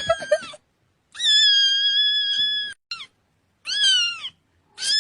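Cat meowing in a series of high-pitched calls: a short one at the start, then a long, steady meow, a brief falling one, a meow that rises and falls, and another long meow starting near the end.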